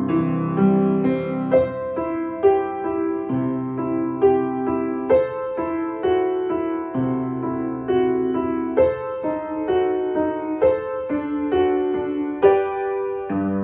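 Slow, gentle piano music: a melody of single struck notes over sustained low chords.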